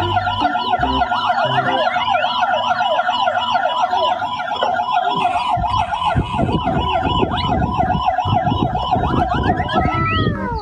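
Electronic yelp siren of a toy emergency vehicle, wailing rapidly up and down about four times a second and falling away in pitch just before the end. A rapid low clatter joins from about halfway.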